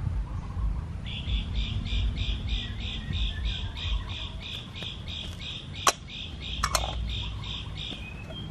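A bird calling in a long, even run of rapid repeated notes, about four a second, starting about a second in and stopping near the end. Two sharp knocks sound a little before and after the six-second mark, the first the loudest thing heard, over a steady low rumble.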